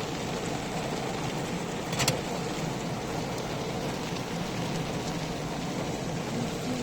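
Heavy rain falling steadily on a car, heard from inside the car, with one sharp tap about two seconds in.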